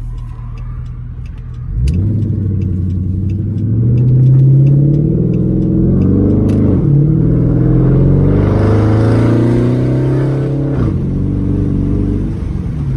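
2012 Dodge Charger SRT8's 6.4-litre HEMI V8 through a straight-pipe exhaust, running at light throttle, then about two seconds in accelerating hard with its pitch climbing. It shifts up twice, about halfway through and again near the end, the pitch dropping each time before it climbs again.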